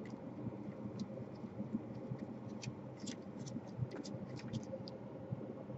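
Irregular light clicks and scratching of hands and a tool picking at the broken plastic casing around a laptop's DC power jack.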